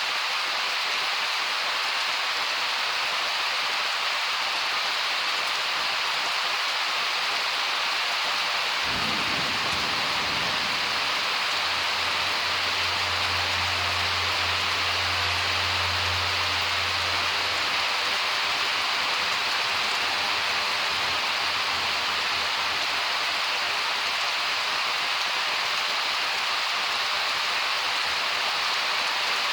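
Steady heavy rain pouring down. About nine seconds in, thunder breaks and rolls as a deep rumble for several seconds before fading back under the rain.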